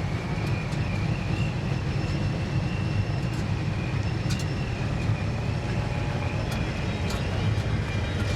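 A vehicle engine running steadily with a low rumble and a faint, steady high whine over it; a few faint clicks sound through it.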